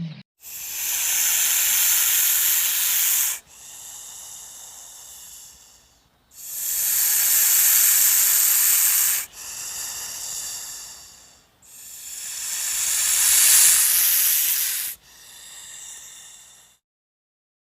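Snake hissing: three long, loud hisses, each followed by a softer, shorter hiss. The hissing stops about a second before the end.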